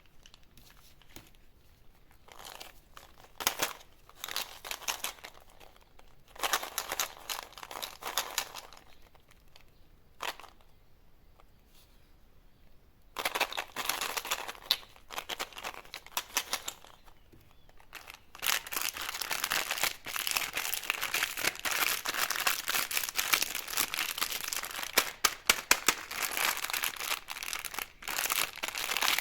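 Candy wrappers crinkling and tearing as sweets are unwrapped, in short bursts at first and then continuous crinkling through the second half.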